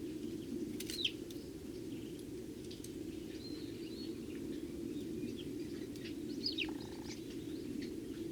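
Eurasian tree sparrows giving scattered short chirps, with two louder falling calls, one about a second in and one later, over a steady low hum.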